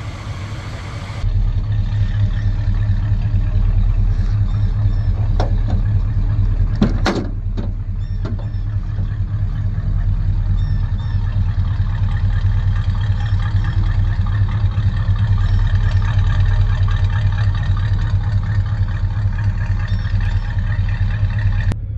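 A 1979 GMC Caballero's 350 V8 idling at about 800 rpm: a steady, deep exhaust rumble that grows louder about a second in. A few light knocks come around the middle.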